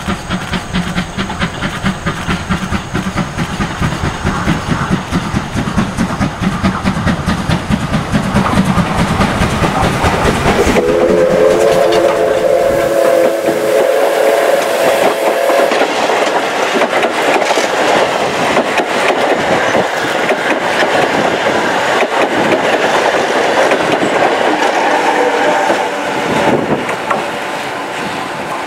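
Steam locomotive of the Oigawa Railway's Thomas the Tank Engine train running with its cars through the station, steady chuffing and rumbling of the engine and wheels. About eleven seconds in its steam whistle blows a chord for about five seconds.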